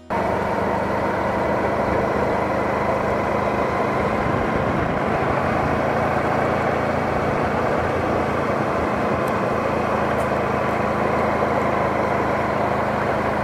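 Honda Pan European ST1100's V4 engine running steadily while riding at an even speed, mixed with wind and road noise. It cuts in abruptly and holds constant, with no revving or gear changes.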